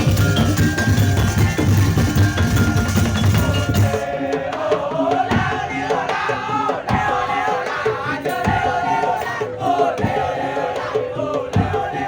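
Madurese tong-tong percussion ensemble playing live, with a struck wooden rhythm and drums. About four seconds in the sound changes abruptly: the heavy bass drops away and a wavering melody line comes forward over steady, regular strikes.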